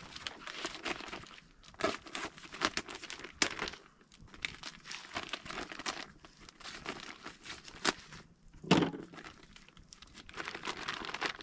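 Packaging around tomahawk beef steaks being handled and opened, crinkling and tearing in irregular bursts, with a single dull thump about nine seconds in.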